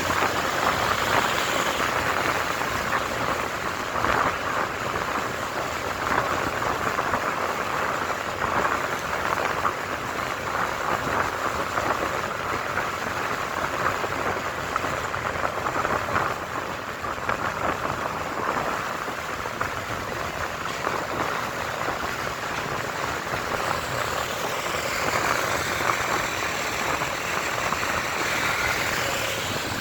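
Wind and road noise rushing over a motorcycle-mounted camera's microphone while riding, with the motorcycle's running underneath. Near the end a higher whine dips in pitch and rises again.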